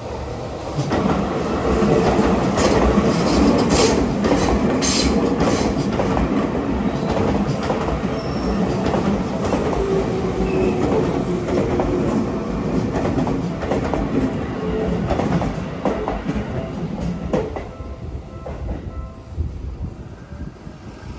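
A Seibu Ikebukuro Line electric train passing close by, its running noise building about a second in, with wheels clicking over the rail joints, then fading over the last few seconds.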